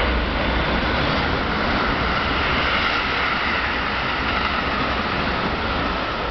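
Keikyu Line electric train moving through the station: a steady running noise with a faint, even whine above it.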